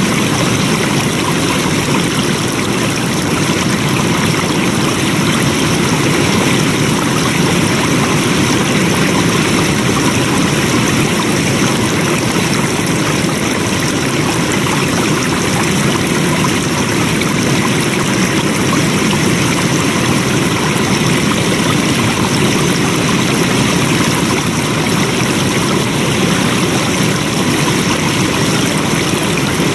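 Flowing water rushing steadily, an even unbroken wash of noise with a low rumble underneath.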